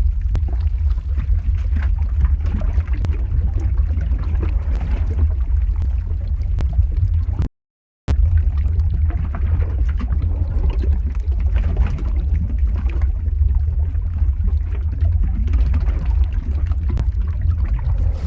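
Lava flow ambience sound effect: a steady deep rumble with a busy liquid texture and scattered crackles. The sound cuts out completely for about half a second just before the middle.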